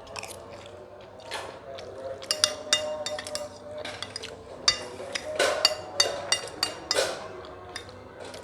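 Close-miked eating sounds: irregular chewing and crunching, mixed with sharp clinks against a plate, busiest from about two seconds in.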